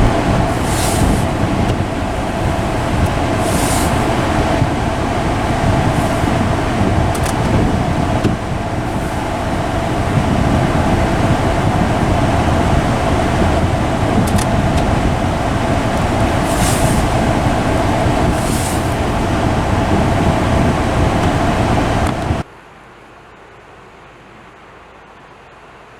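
Car driving through snow, a steady loud drone of engine and tyres with a few short hissing swishes. About 22 seconds in it cuts off abruptly to a much quieter steady hiss.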